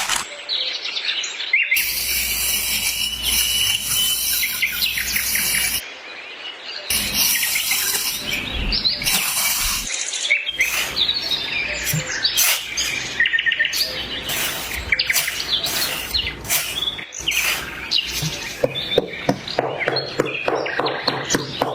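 Small birds chirping and tweeting continuously, with many quick small clicks and taps among the chirps.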